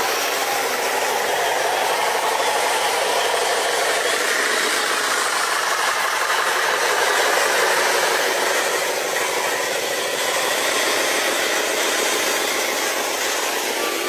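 Small electric motors and gearboxes of RC trucks running, a steady whirring rattle with a faint whine that wavers in pitch.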